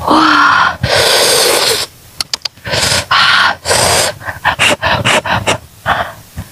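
A person blowing hard on hot grilled cauliflower in several long puffs of breath, very close to a clip-on microphone. Then short, clicky mouth sounds as she bites into it near the end.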